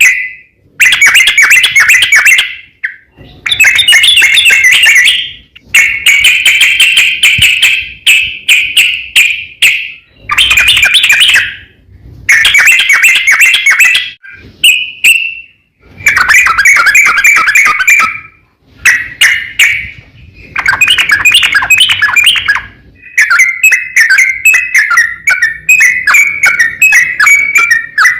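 Yellow-vented bulbul (trucukan) singing loudly in long, rapid, bubbling phrases of one to three seconds with short pauses between them, running into a near-unbroken stream of quick notes near the end. This is the long 'ropel' song used to call out and provoke rival bulbuls.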